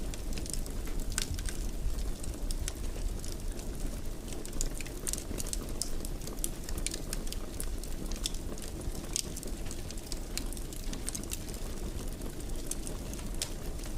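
Fireplace fire crackling, with many irregular sharp pops and snaps over a steady low rush of burning.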